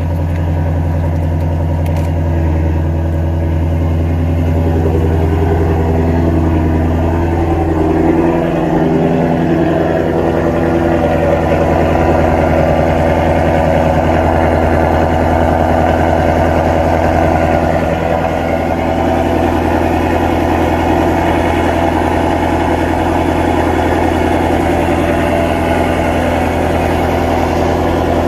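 Ford Mustang Shelby GT350's 5.2-litre flat-plane-crank V8 idling steadily and loud, with its active exhaust valves held open.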